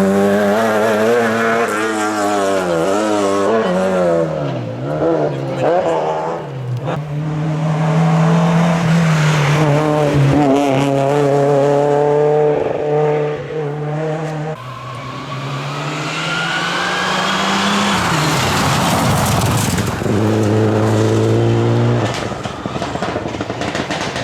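Rally cars at full attack on a stage: engines revving hard with the note climbing, holding and dropping as they change gear and brake, with a sudden fall in revs about two-thirds of the way in and a fresh rising note after it.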